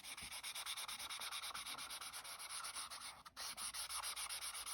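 Marker pen scribbling on card, colouring in a die-cut piece with quick, even back-and-forth strokes, about six a second, with a short break a little after three seconds in.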